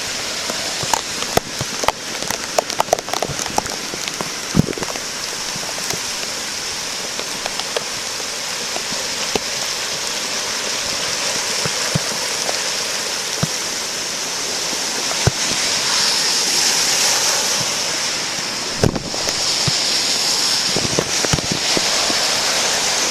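A flooded creek, normally small and gentle, rushing with a steady wash of water, rain falling with it. Scattered sharp taps, mostly in the first few seconds, and a louder knock late on.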